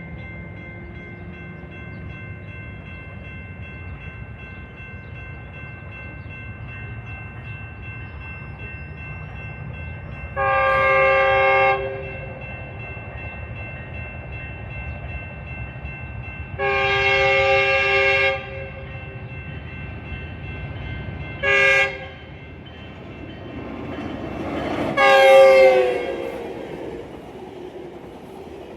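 Locomotive air horn sounding the grade-crossing pattern, long, long, short, long, over the steady running sound of an approaching train. The last blast is the loudest and drops in pitch as the locomotive passes.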